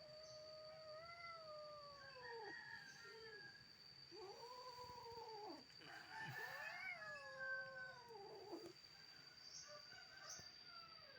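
Cats caterwauling in a fighting standoff: long, wavering yowls that rise and fall, in three drawn-out spells, with two voices overlapping in the middle.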